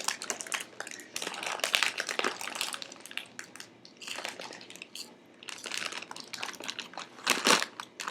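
Plastic snack bag crinkling and crackling in irregular bursts as it is handled and worked open, loudest near the end.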